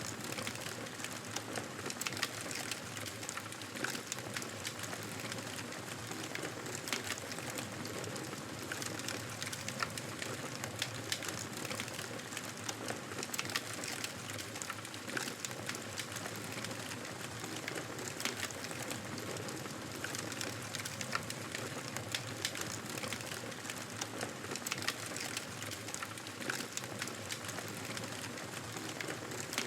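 Wood fire in a fireplace crackling, with frequent sharp pops and snaps scattered irregularly over a steady low hiss and rustle.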